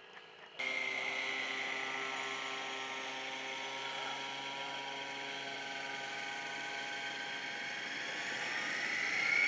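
Radio-controlled model airplane motor running steadily in flight, a high whine with a rising pitch near the end. It starts abruptly about half a second in.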